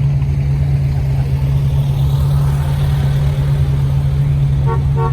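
Motor vehicle engine idling steadily with a constant low hum, with two brief higher-pitched sounds near the end.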